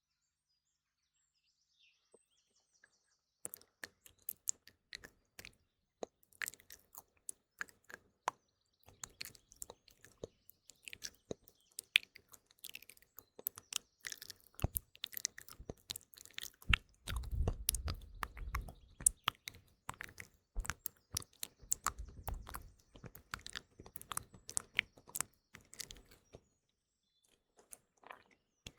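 Close-miked ASMR mouth sounds: dense, irregular wet clicks and smacks that start about three and a half seconds in and run on, with a couple of short spells of low rumble. Faint morning birdsong sits in the background, heard alone at first.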